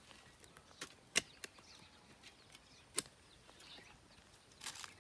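A few sharp knocks at irregular intervals, the loudest about a second in and at three seconds, over faint outdoor background.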